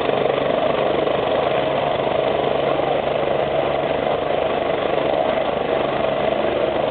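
MBB/Kawasaki BK 117 twin-turbine helicopter running steadily, with a constant turbine tone and an even low rotor pulsing.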